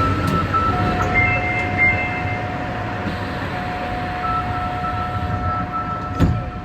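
Kita-Osaka Kyuko 9000 series electric train running on the line, a steady rumble with several high-pitched tones that come and go. One sharp knock comes near the end.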